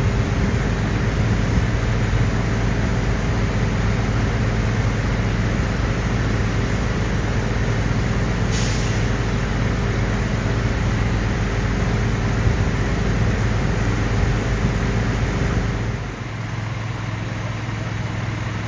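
Heavy diesel engine of a fire truck running steadily, with a short air-brake hiss about eight and a half seconds in. The low engine rumble falls away about sixteen seconds in.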